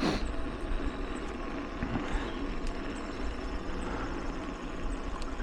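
Mountain bike climbing a dirt singletrack: a steady rumble of tyres and drivetrain, with a few faint clicks.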